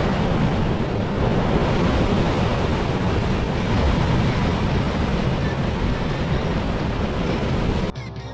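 Steady rushing noise of wind and water outdoors, cutting off sharply near the end.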